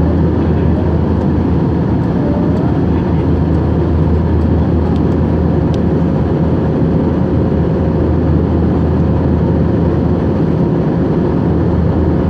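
Airbus A321-231 jet engines running with a steady, unchanging drone: a deep hum with a faint steady whine above it.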